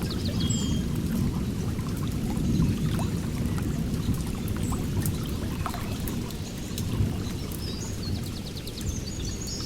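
Water flowing and splashing in a steady rush, with birds chirping over it; a few chirps come about half a second in, and the birdsong picks up near the end.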